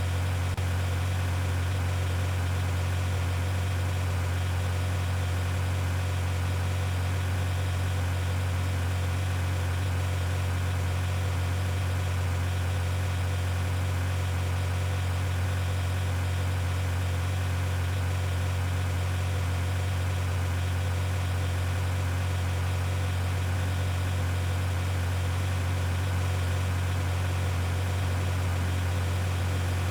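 Steady low hum of a vehicle engine idling, even in pitch and level.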